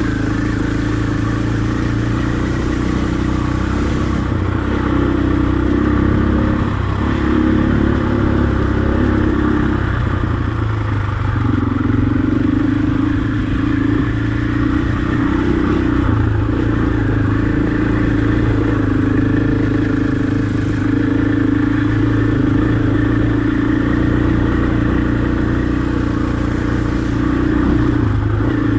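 Husqvarna enduro dirt bike engine running while riding a trail, steady overall, its pitch dipping and rising a few times as the throttle is rolled off and on.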